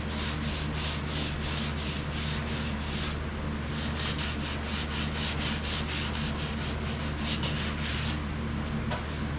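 Hand sanding a car body panel with sandpaper in quick back-and-forth strokes, about three a second. It pauses briefly about three seconds in and stops near the end. A steady low hum runs underneath.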